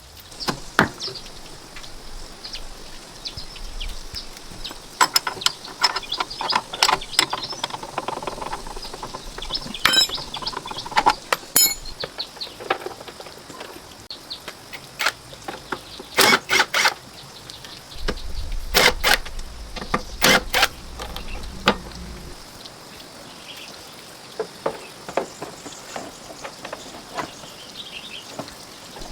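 Scattered sharp clicks and knocks, several in quick pairs or clusters, over a faint steady hiss. The loudest knocks fall around the middle.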